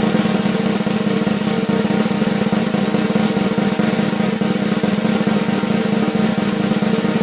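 Drum roll sound effect: a rapid, even roll on a snare drum, held steadily for about seven seconds.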